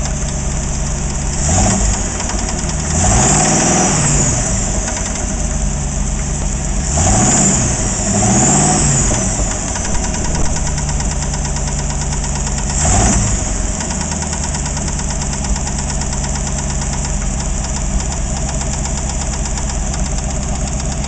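AMC 360 V8 engine idling with a rhythmic knocking rattle, revved briefly several times in the first part and then left to idle. The knock began after the engine overheated.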